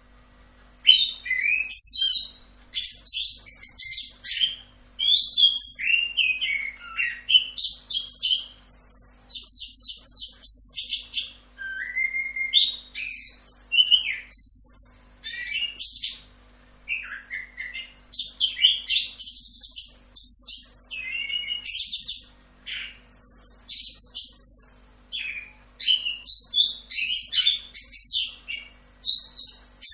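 Orange-headed thrush (anis kembang) singing a long, continuous song of quick, varied warbled and whistled phrases, starting about a second in. A faint steady hum runs beneath it.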